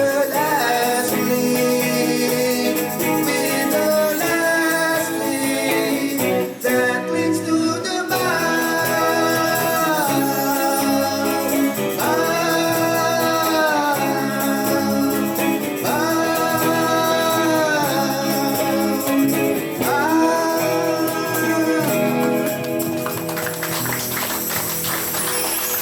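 Live band playing a slow ballad with guitar, tambourine and a long held melody note, sustained about two seconds and repeated every four seconds or so through the middle of the passage.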